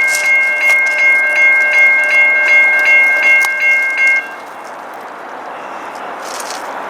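Railroad grade-crossing warning bell ringing with rapid repeated strikes, about two and a half a second, that stop about four seconds in. A quieter steady rushing noise remains afterwards.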